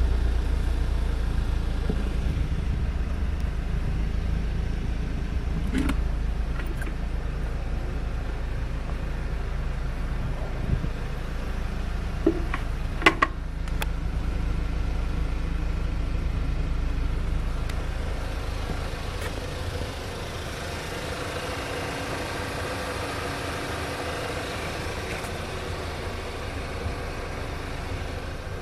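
Car engine running through a fully stock exhaust system, a steady low rumble. The rumble drops off about twenty seconds in, and a few light clicks sound along the way.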